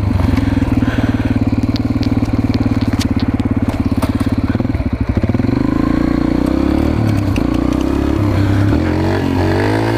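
Mini bike's small engine running with a fast, even putter, then revving up and rising in pitch about five seconds in and again near the end.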